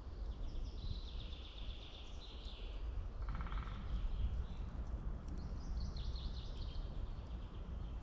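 Small songbirds singing in an early-spring forest: a few short high trilling songs, one about a second in, one near the middle and one later, over a faint low steady background noise.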